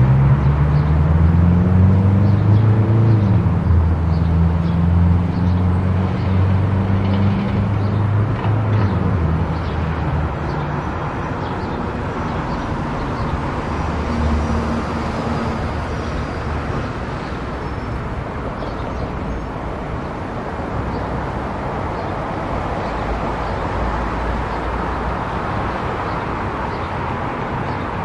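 Car travelling on a highway: steady tyre and road noise, with a low engine drone that shifts in pitch over the first nine seconds or so and then fades, leaving the even road noise.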